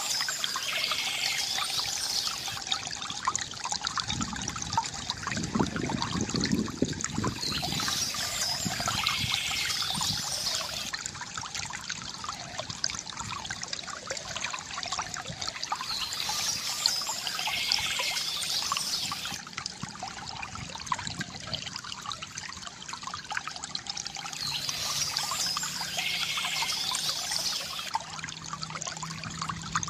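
Water trickling and gurgling steadily from a bamboo fountain spout. Short spells of high birds' chirping recur about every eight seconds.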